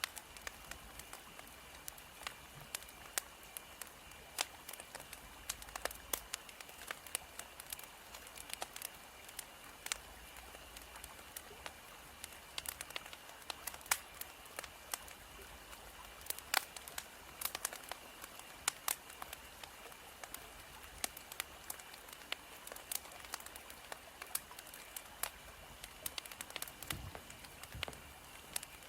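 Wood fire crackling: irregular sharp pops and snaps, several a second, over a steady hiss.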